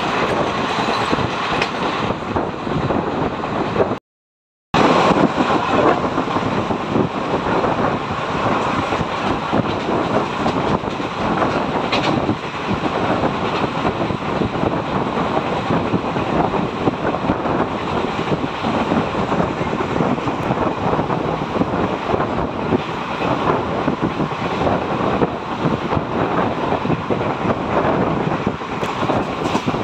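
Express passenger train running at speed, heard from an open coach window: steady wheel-on-rail noise and rushing air. For the first few seconds it runs alongside a goods train on the next track. The sound cuts out briefly about four seconds in, then the running noise carries on.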